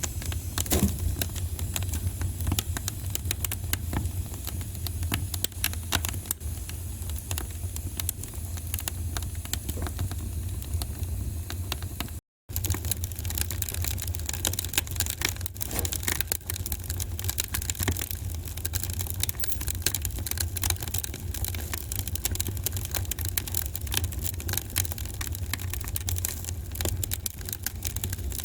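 Wood fire burning in a fireplace, crackling with a dense run of small snaps and pops over a steady low rumble. The sound cuts out for a split second about twelve seconds in.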